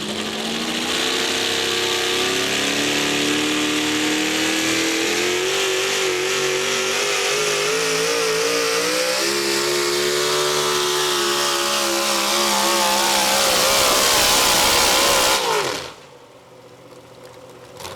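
Modified 4x4 pulling truck's engine at full load down the pulling track, a loud high-revving note that wavers and climbs. About fifteen seconds in, the pitch falls and the engine sound cuts off sharply at the end of the pull.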